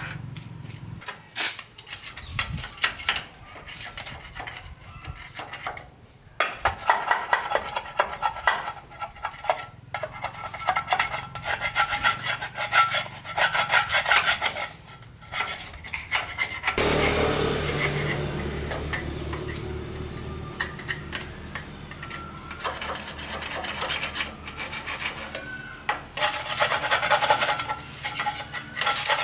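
Repeated quick, irregular rubbing and scraping strokes of hand work on a part. A little past halfway, a steady hum comes in for several seconds, and the scraping strokes start again near the end.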